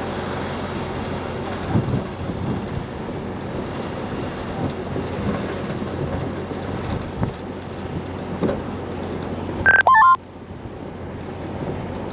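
Heavy diesel truck engine running steadily with scattered clanks and knocks. About ten seconds in there is a brief, loud two-pitch electronic tone.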